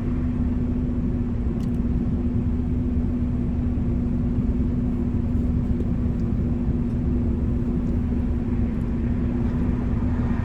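Car engine idling, a steady low rumble with a constant hum, heard from inside the car's cabin.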